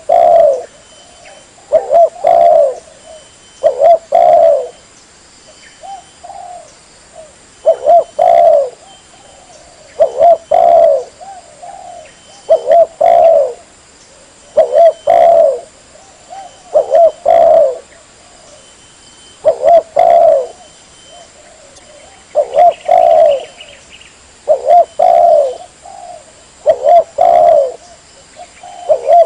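Spotted dove (tekukur) cooing over and over as a lure call. Each phrase is a quick cluster of low coos, repeating about every two seconds, with fainter coos in between.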